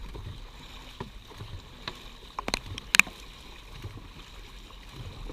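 Dragon boat paddles working the water under a steady haze of splashing and low rumble, with two sharp knocks about half a second apart midway through.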